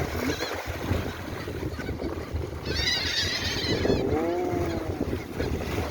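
Seabirds calling over steady wind noise on the microphone: a quick cluster of short, high, arcing cries about three seconds in, then a lower drawn-out call.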